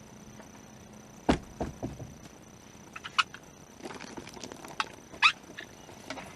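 Knocks and thumps in a small fishing boat: one heavy thump about a second in, a few lighter knocks after it, and some sharp clicks later on.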